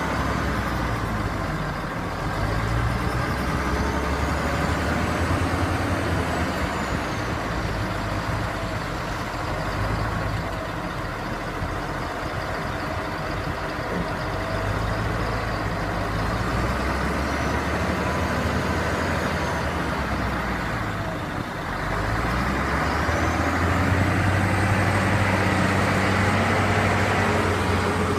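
Mercedes-Benz dump truck's diesel engine running, its pitch stepping up and down as it works. The engine dips briefly about 21 seconds in, then runs louder, with a faint high whine rising and falling over it.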